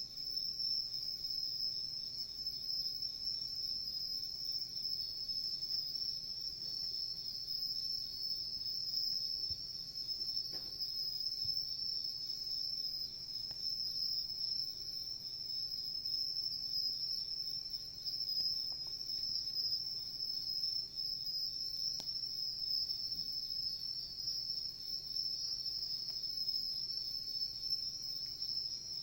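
A steady, high-pitched chorus of chirring insects, with a few faint snaps from a wood campfire.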